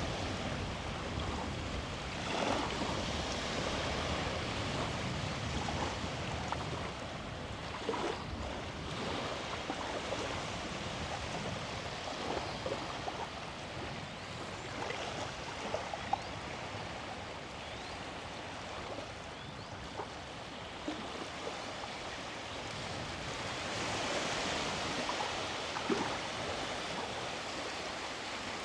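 Sea waves washing onto the beach: a steady rushing that swells a little a couple of seconds in and again near the end, with a few faint short ticks.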